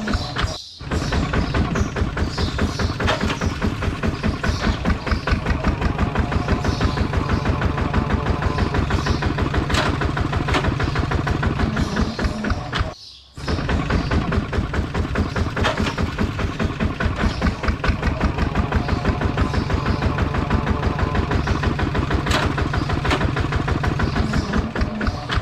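Small diesel engine running with a fast, even chugging beat. The sound drops out briefly twice, about half a second in and again about 13 seconds in.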